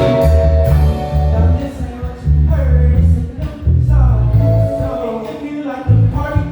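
Live band playing: strong bass guitar notes, drums and keyboards, with a lead melody line, sung or played, gliding over them.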